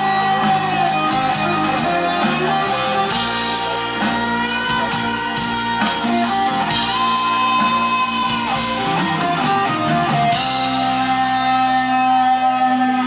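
Live prog rock band playing, with electric guitar lines over drums and cymbals. About ten seconds in, the drums and cymbals drop out and a held chord rings on.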